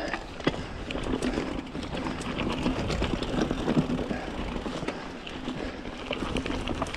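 Mountain bike being ridden over a soft dirt trail: tyre noise with scattered clicks and rattles from the bike.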